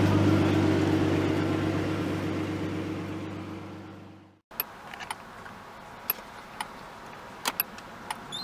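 The turbocharged RB20DET straight-six of a 1987 Nissan Skyline running steadily, fading away over the first four seconds and then cut off. Next comes a quiet stretch with several short, sharp clicks.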